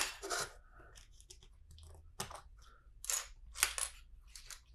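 LEGO bricks clicking and rattling as they are handled and pressed together, a series of short, scattered plastic clicks.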